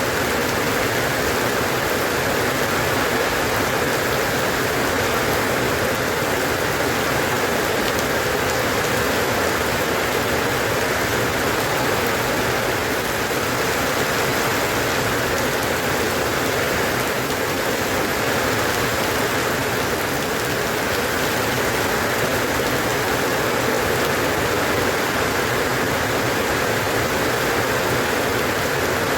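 Steady rain falling as an even, unbroken hiss, with no separate drops or thunder standing out.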